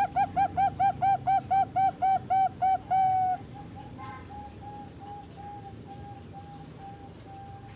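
Young Bangkok perkutut (zebra dove), about three and a half months old, singing a rapid run of short, clear coos, about four a second. The run ends in a longer drawn note about three seconds in, and fainter, slower cooing follows.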